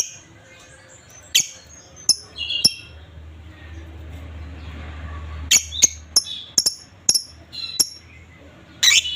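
Lovebirds giving short, sharp, shrill chirps in irregular ones and twos, then a quick run of calls about halfway through and a loud call near the end.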